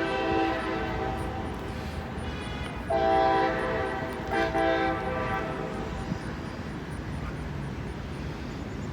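Diesel locomotive air horn on an approaching local freight train, sounding its chord in a long blast, then after a pause a second long blast broken by a short one, before fading. A low rumble runs underneath.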